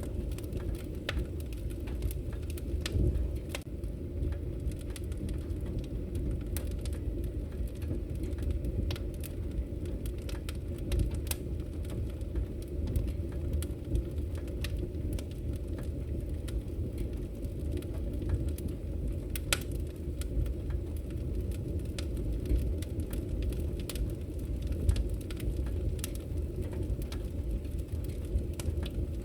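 Wood fire burning in a fireplace: a steady low rumble of the flames with frequent irregular crackles and pops of burning logs.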